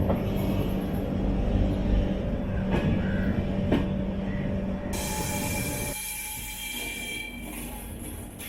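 Passenger train running on the rails with a steady low rumble. About two-thirds of the way through, the sound changes and thin high-pitched wheel squeal comes in.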